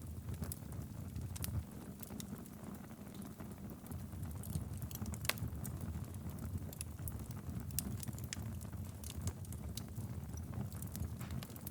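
Wood fire burning in a fireplace: a steady low rumble of flames with irregular sharp crackles and pops of burning wood.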